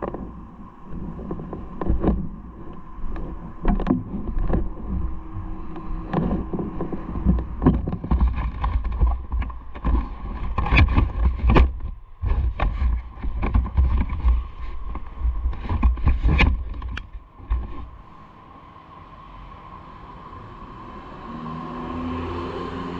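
Riding noise picked up by a camera: a heavy low rumble with many irregular knocks and thumps, typical of wind and road bumps on the microphone. It eases to a quieter steady noise for the last few seconds.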